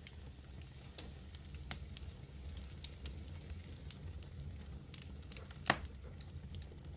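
Medium wood fire burning with a low steady rumble, scattered sharp crackles and a soft hiss. One loud pop comes near the end.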